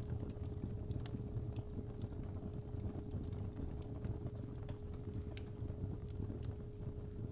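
Fireplace fire crackling with scattered sharp pops over a low rumble, mixed with a steady 417 Hz sine tone.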